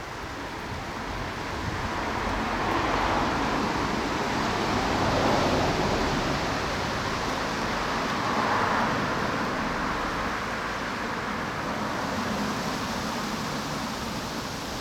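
Strong wind gusting through garden foliage, swelling twice and easing off, with a low rumble of wind on the microphone.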